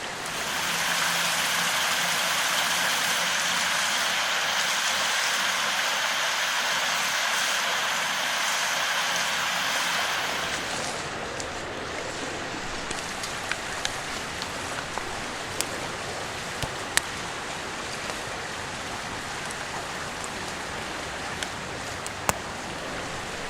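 Stream water rushing, a loud even hiss for about the first ten seconds, then cutting to a fainter, steadier flow with scattered sharp clicks.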